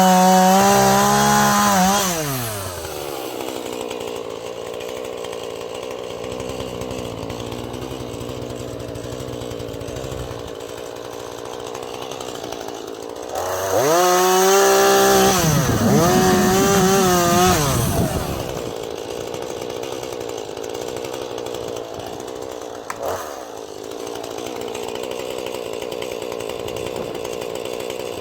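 Husqvarna 440e two-stroke chainsaw revving high, then dropping to a steady idle about two seconds in. It revs up again for about four seconds around the middle, the pitch wavering, before settling back to idle.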